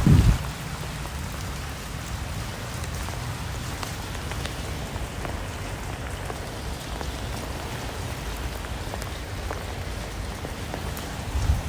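Steady rain falling, with scattered individual drops ticking through an even hiss and a low rumble underneath.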